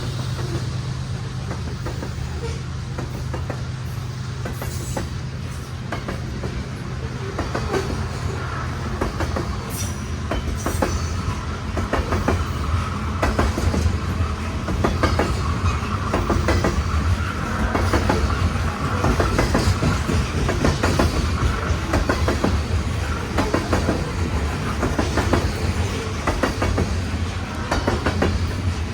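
Loaded coal train's hopper cars rolling past: a steady low rumble with rapid clacking of steel wheels over the rail joints, growing louder about twelve seconds in. A faint high wheel squeal comes through in the middle.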